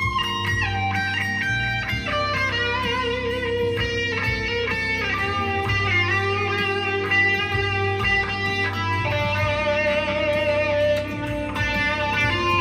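Electric guitar played through a Blackstar ID15 TVP amplifier with a Dunlop Cry Baby wah pedal: a run of held single notes, some of them wavering in pitch.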